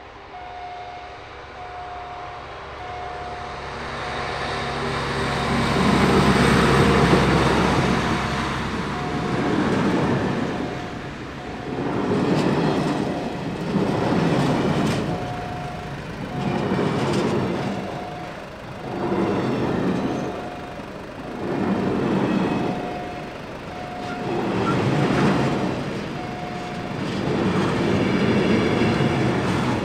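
Freight train of flat wagons rolling over a level crossing, its rumble and rattle swelling and fading every two to three seconds as each wagon's wheelsets pass. Over it the crossing's electronic warning signal sounds a short beep about once a second.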